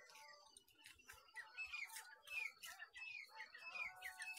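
Faint bird chirping in the background: a string of short, downward-gliding chirps about twice a second, starting about a second and a half in, with scattered light clicks.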